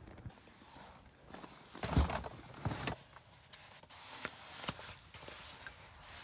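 Scattered knocks, clicks and scrapes of gear being handled, with the loudest thump about two seconds in.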